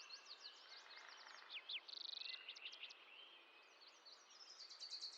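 Faint songbirds chirping: many quick high chirps and sweeps, a short buzzy note about two seconds in, and a fast trill near the end.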